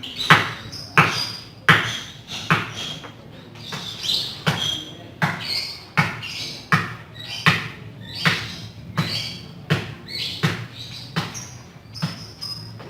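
A steady series of sharp knocks, roughly one and a half a second, with short high chirps between them.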